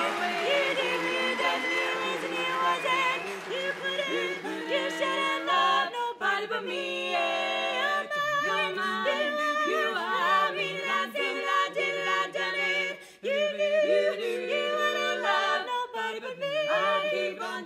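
Women's barbershop quartet singing a cappella in close four-part harmony, moving through held chords without clear words.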